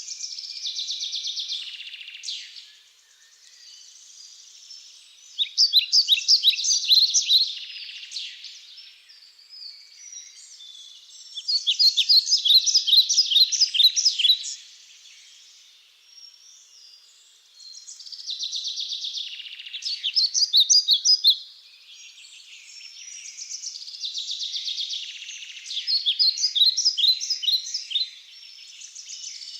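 Birds calling in rapid, high-pitched chirping trills that swell into loud bursts of two to three seconds, returning about every five or six seconds, with softer chirping in between.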